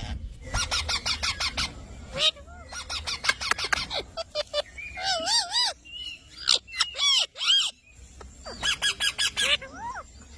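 Green parrot calling in several bouts: rapid chattering runs of sharp calls and wavering whistles that swoop up and down in pitch, with short pauses between bouts.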